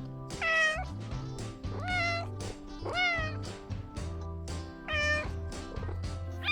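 A cat meowing four times, each meow a short pitched call, over background music with a steady beat.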